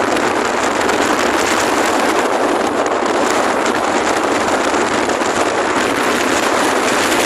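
Strong wind blowing across the microphone, a loud, steady rush with no breaks.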